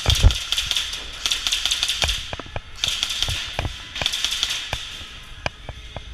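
Airsoft electric guns firing rapid full-auto bursts, four runs of about half a second to a second each, with scattered single clicks and knocks in between.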